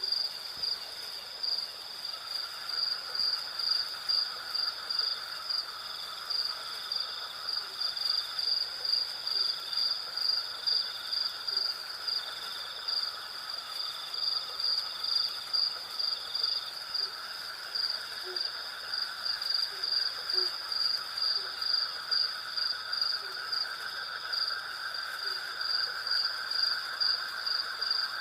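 Night chorus of crickets and other insects: a high, regular pulsing chirp over a continuous lower trill.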